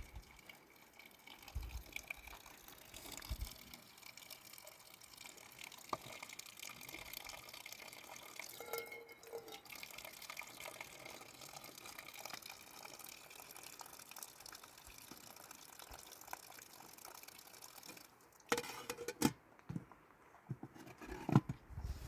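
Water running and trickling steadily. About eighteen seconds in it gives way to a few sharp knocks and clatter.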